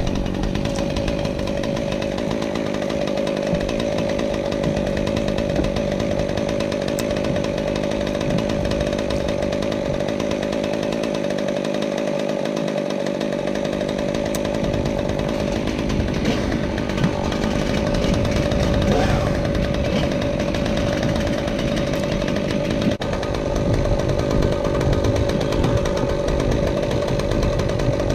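Chainsaw running at a steady, high pitch with the throttle held open, cutting wood.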